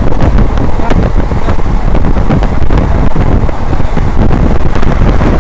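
A moving train heard from on board, running loudly, with wind buffeting the microphone and irregular clacks and rattles through it.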